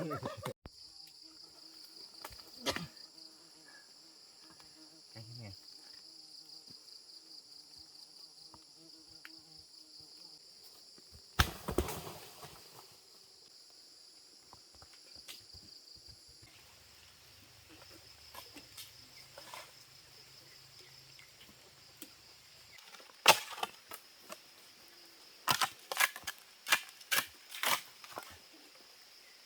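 Steady high insect buzz, with sharp knocks now and then and a quick series of them near the end.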